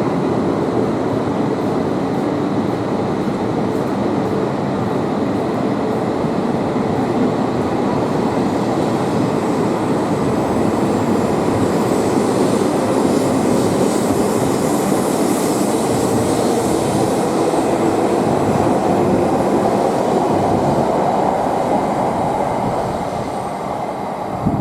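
Tohoku Shinkansen train pulling in beside the platform: a loud steady rush of wheels and running gear on the rails, with a brighter hiss through the middle that eases off near the end.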